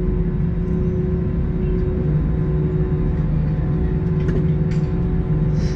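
Airbus A321 cabin during taxi: the engines' steady low rumble and hum at taxi power, heard from inside the cabin, with a few faint ticks or rattles near the end.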